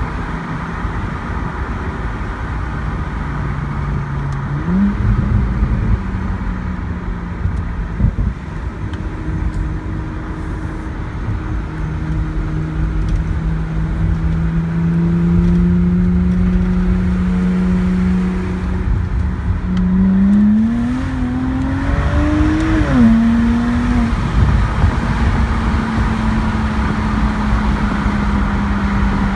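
2009 BMW 135i's twin-turbo N54 inline-six, with a Berk Racing exhaust, running. Its pitch climbs slowly and steadily, with quick jumps up and down in revs once early and again about two-thirds of the way through.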